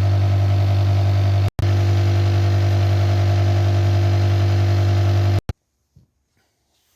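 Rod cap grinder running: its electric motor and wheel give a steady, loud hum that cuts off abruptly about five seconds in.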